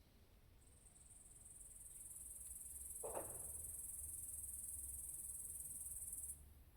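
Faint, very high-pitched insect buzzing that swells in, holds steady and then cuts off suddenly. A brief falling sound comes about halfway through.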